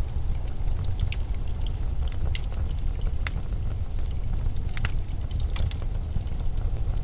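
Low, steady blizzard wind rumbling, with scattered light crackles and ticks over it.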